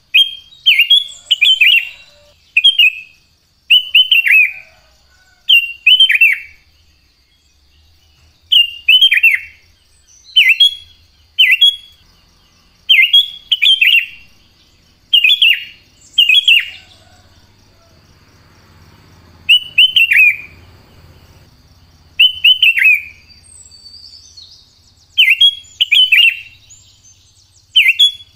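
Sooty-headed bulbul (kutilang) singing: short, loud, bubbly phrases of falling notes, repeated every second or two with a few brief pauses.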